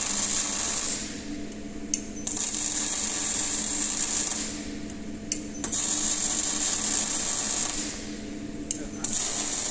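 Automated machinery running in a repeating cycle: a sharp click, then a loud hiss for about three seconds that stops abruptly, repeated about every three and a half seconds over a steady low hum.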